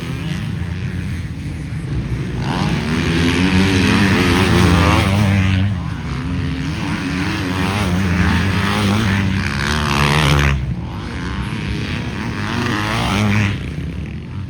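Motocross bikes racing past, their engines revving up and easing off over and over. The sound is loudest from about two to ten seconds in and drops suddenly, then another bike revs up near the end.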